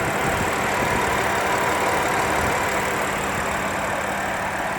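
BMW M4's S55 twin-turbo inline-six engine idling steadily, heard from the open engine bay.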